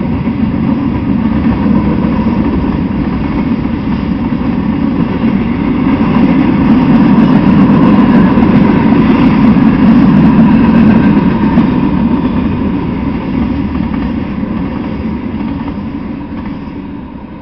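Freight train of tank cars and gondolas rolling past, a steady noise of steel wheels running on the rails. It is loudest about halfway through and fades near the end as the last cars go by.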